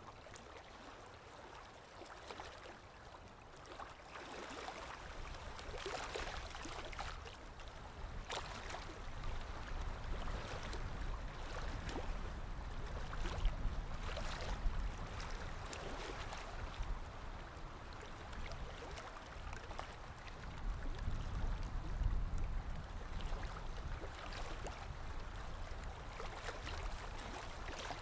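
Water of a stream running and splashing steadily, with a low rumble underneath that swells twice.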